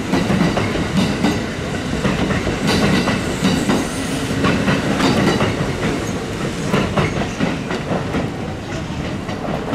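Kintetsu 2800-series electric train pulling away and rolling past, its wheels clacking over the rail joints in an irregular run of clicks.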